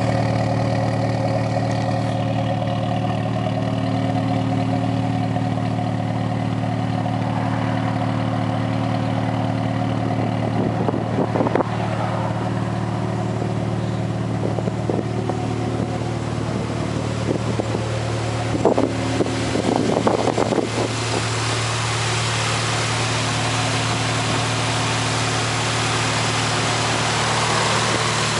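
Swapped-in Toyota 3S-GTE turbocharged 2.0-litre four-cylinder running at a steady idle through an aftermarket Blitz Nur Spec exhaust. A few brief louder bursts come about midway.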